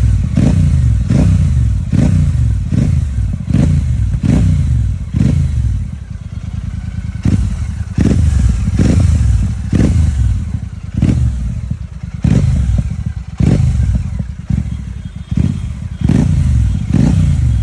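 Royal Enfield Super Meteor 650's parallel-twin engine revved through its exhaust in quick throttle blips, about one a second. Each blip rises sharply and falls back toward idle, with a deep low note.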